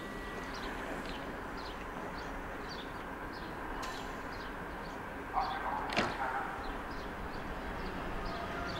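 Class 480 Berlin S-Bahn train standing at a platform with a steady station hum, a short hiss and a sharp knock about five to six seconds in, and a rising pitch starting near the end as the train begins to pull away. High falling chirps repeat about twice a second throughout.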